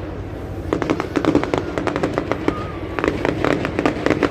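Fireworks display: rapid volleys of crackling bangs, one volley about a second in and another around three seconds in, with short lulls between.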